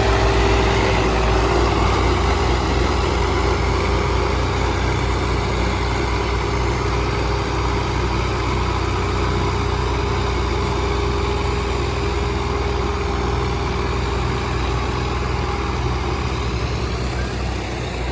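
Heavy diesel tractor engines running steadily under load while towing a harvester that has sunk in the field: a low drone with a steady whine above it.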